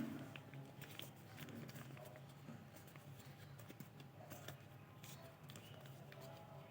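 Paper being handled and folded by hand: faint scattered clicks and crinkles over a low steady hum.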